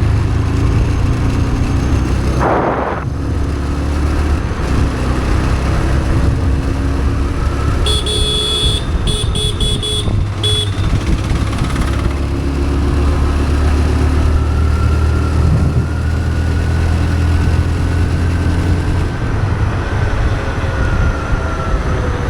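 TVS Raider 125's single-cylinder engine running steadily under way, heard with road and wind noise on an action camera's built-in microphone. About eight seconds in, a vehicle horn sounds in a rapid string of short beeps lasting a couple of seconds.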